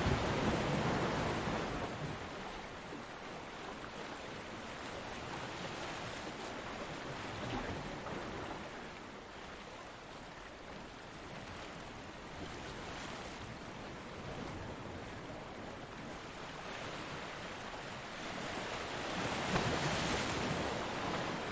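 Ocean waves breaking on a beach: a loud wash of surf fades over the first couple of seconds into a steady, softer hiss of water, and another wave breaks and swells up again near the end.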